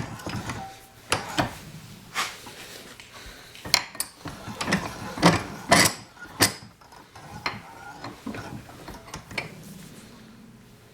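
Irregular sharp metallic clicks and clunks of metal tools and parts being handled and set up on a workbench, about a dozen knocks that thin out near the end.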